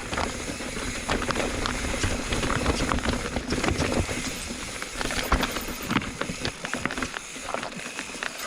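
Mountain bike riding over a rocky trail: tyres crunching over rock with frequent irregular knocks and rattles from the bike.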